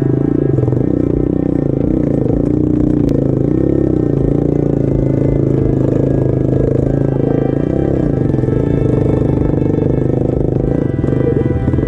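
Pit bike engine running with revs rising and falling, a small single-cylinder four-stroke being ridden.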